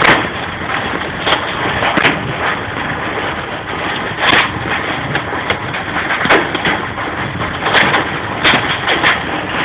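Heavy hail and rain pelting a car, a steady clatter punctuated by irregular sharp cracks of big hailstones striking the body and glass.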